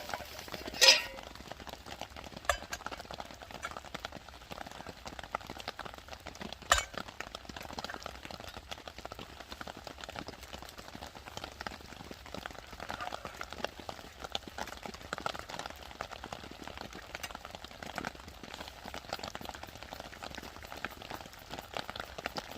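A metal pan clanks down on a small stainless steel wood-burning camp stove about a second in, with a second sharp metal knock near seven seconds. Between them runs a steady fine crackle and patter from the burning fire and rain.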